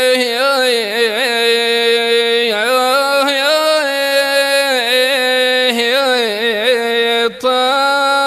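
A solo voice singing a long, drawn-out, ornamented phrase of wanna, the Gulf Bedouin style of sung poetry, unaccompanied. There is a brief break for breath about seven seconds in.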